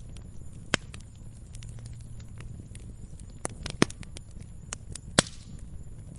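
Log fire in a fireplace crackling: a low steady rumble of flames broken by sharp, irregular pops, one about a second in, a cluster past the middle and a loud one near the end.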